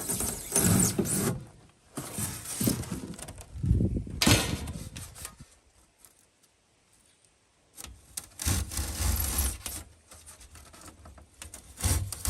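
Rigid foamboard insulation being cut to notch out openings, heard as several bursts of scraping with a pause of about two seconds in the middle.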